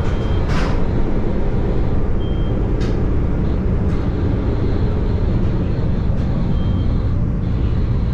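CTA Yellow Line rapid-transit train running along the track: a steady loud rumble of wheels on rail, with three brief high squeals and a couple of sharp clicks.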